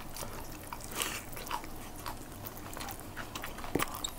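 Two people chewing, biting and smacking their lips while eating saucy chicken adobo by hand: a quick run of short, wet mouth clicks.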